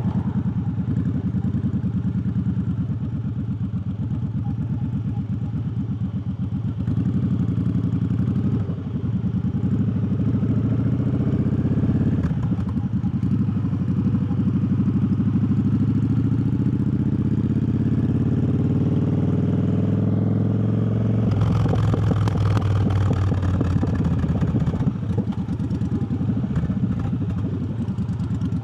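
Triumph Bobber's parallel-twin engine running under way, its pitch rising for several seconds as the bike accelerates. A rushing noise rises over it for a few seconds about three-quarters of the way through.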